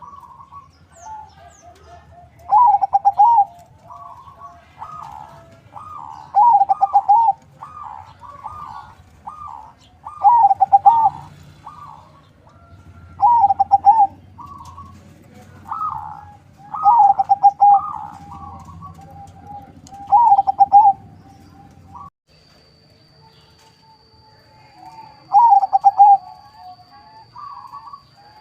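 Zebra dove (perkutut), a local × Bangkok cross, cooing. Its rolling coo phrase repeats about every one and a half to two seconds, then pauses for a few seconds near the end before starting again.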